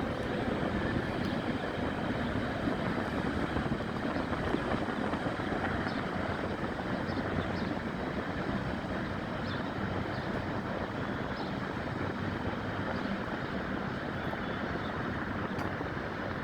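Steady low rumble of vehicle engines, even throughout, with a few faint ticks above it.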